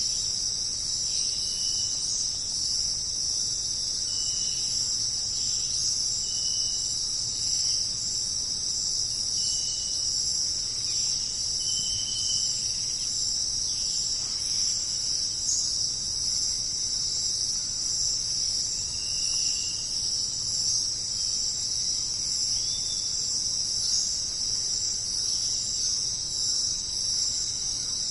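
Dense, steady chorus of crickets trilling without a break, with short, single, high whistled notes from a bird about seven times, most of them in the first half.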